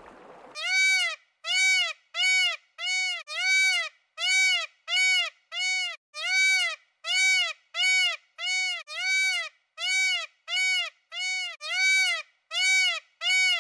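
Indian peacock calling over and over, about one and a half short calls a second, each rising and falling in pitch.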